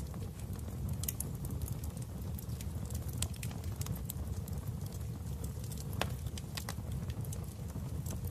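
Fire crackling in a fireplace: irregular sharp pops and snaps over a steady low rumble of flames, with a louder snap about six seconds in.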